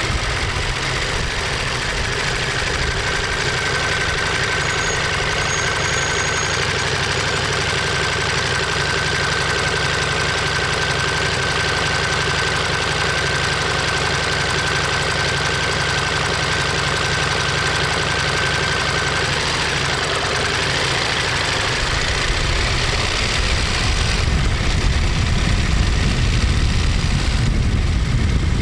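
Ducati Monster 1200S L-twin engine and exhaust running steadily. About three-quarters of the way through, the sound shifts and grows louder.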